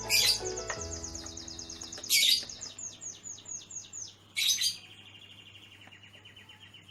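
Small songbird calling: three loud, sharp calls, each followed by a fast trill of high repeated notes, the last trill lower in pitch. Soft music sits underneath for about the first second.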